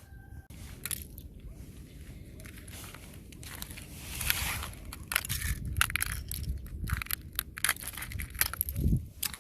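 Fresh thin ice crunching and cracking as it is broken, in irregular sharp cracks that come thicker in the second half, with one longer crunch about four seconds in and a dull thump near the end.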